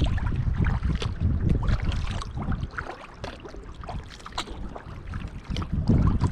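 Kayak paddling on open water: small splashes and drips of water around the paddle and hull, with wind buffeting the microphone. The wind rumble eases off in the middle and comes back strongly near the end.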